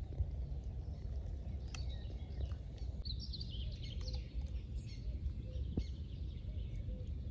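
Small birds chirping and twittering over a steady low outdoor rumble, with a few faint clicks.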